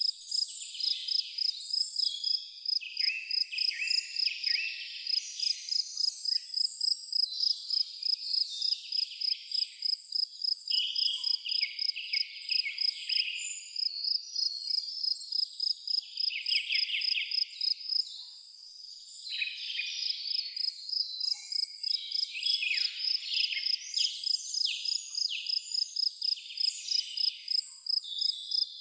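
An insect, cricket-like, chirps in a steady high pulse about three times a second, pausing briefly about two-thirds of the way through, while several birds sing and chirp over it.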